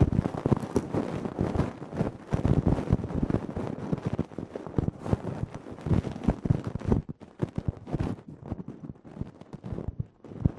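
Ear-cleaning ASMR sounds: a tool scratching and rubbing right against the microphone in a dense, irregular run of crackles and scrapes. The sound thins out and turns duller about seven seconds in.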